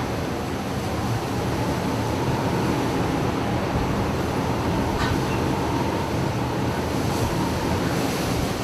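Steady rumbling noise of a ship working through a storm at sea, with a faint steady whine running through it.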